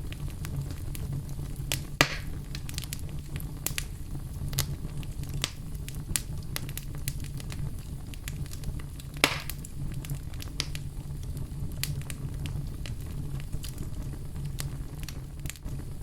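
Wood fire burning in a fireplace: a low steady rumble of flames with scattered crackles and pops, two of them louder, about two seconds and nine seconds in.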